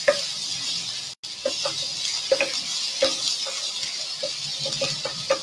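Blended garlic and shallots sizzling in hot cooking oil in a pan, with a utensil stirring and knocking against the pan about nine times. The sound cuts out completely for a moment about a second in.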